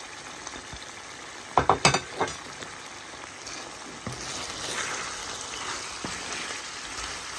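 Chicken karahi frying gently in its pan over a low flame while a wooden spatula stirs in the black pepper. There are a few sharp knocks of the spatula against the pan about a second and a half in, then a stretch of stirring and scraping through the sizzling gravy.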